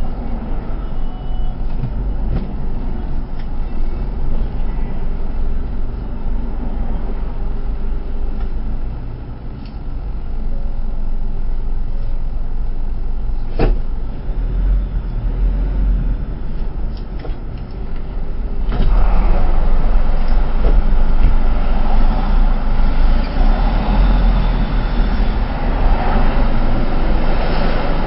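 Low engine and road rumble heard inside a moving truck's cab, with a sharp click about halfway through. About two-thirds in, the noise suddenly gets louder and hissier.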